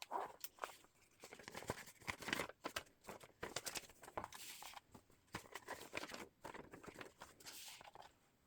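Paper pages of a handmade hard-cover journal rustling and crinkling as they are handled and turned, with light taps and irregular flutters.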